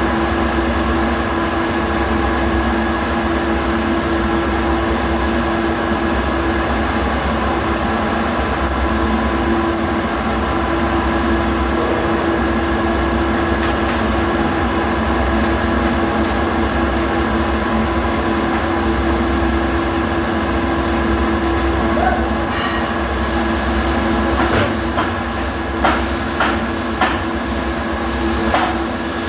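MIG welding arc crackling steadily over a constant machine hum, with a few sharp knocks near the end.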